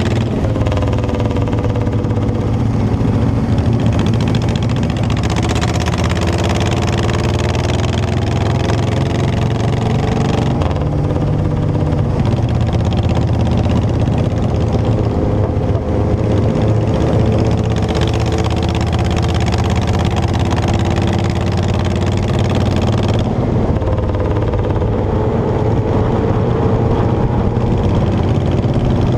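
Motorcycle engine running under way, its pitch rising and falling several times as the throttle changes, over a steady low rumble.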